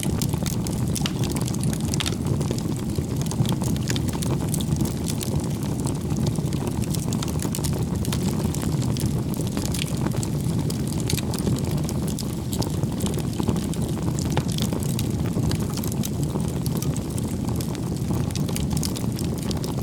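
A wood fire burning, a steady low rumble of flames with many small sharp crackles and pops of the burning wood.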